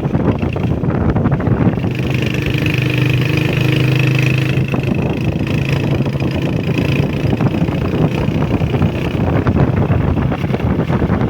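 Honda CG125's single-cylinder four-stroke engine running at a steady pitch while the motorcycle is ridden, with wind rushing over the microphone.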